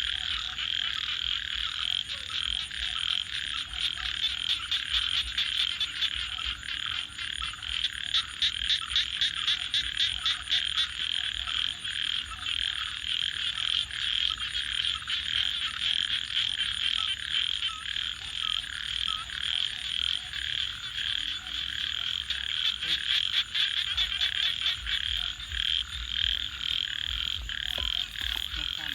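A chorus of frogs calling without pause, a dense trilling mass of overlapping calls, with a run of rapid pulsed calls standing out about a third of the way in.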